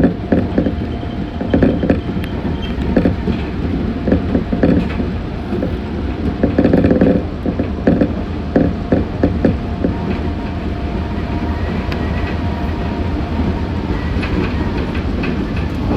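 Meitetsu 6500 series electric train running, heard from inside the front car: a steady running rumble with the wheels clattering over rail joints again and again.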